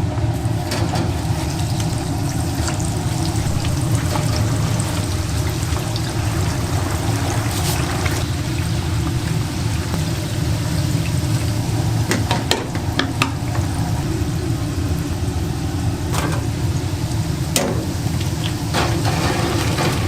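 Steady sizzle of dough deep-frying in oil over a constant low hum, with a few sharp clinks scattered through.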